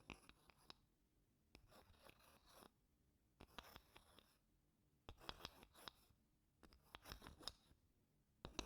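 Wooden spoon scraping across wooden blocks in short, soft strokes, about six of them with brief pauses between. Small clicks and ticks sound within each stroke.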